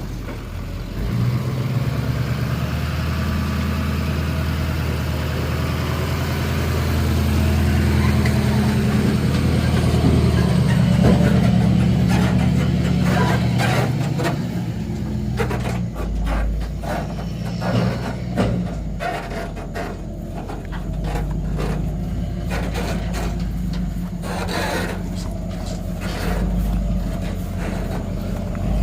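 Dually pickup truck's engine running as it moves with the car-hauler trailer hitched, growing louder up to about 11 s and then settling lower. From about 15 s on, short clicks and knocks sound over the engine.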